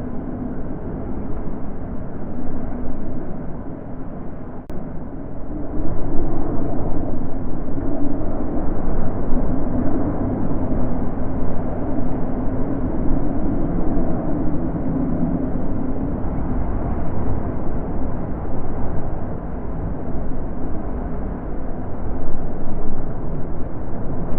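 Wind blowing in a low, rushing rumble that swells and eases in gusts, growing louder about six seconds in.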